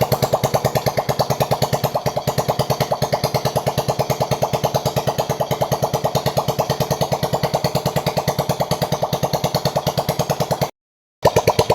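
Motorbike engine idling with an even, rapid beat of about eight to nine pulses a second. It cuts off for about half a second near the end and then resumes.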